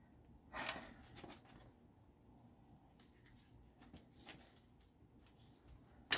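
A man breathing out hard with effort about half a second in, then quiet with a few faint light clicks and knocks. A sharp click near the end is the loudest sound.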